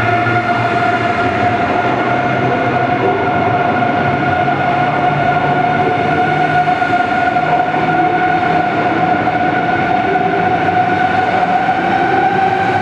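Electric train running with a loud, steady whine over the rumble of the running gear; the whine's pitch rises slightly near the end.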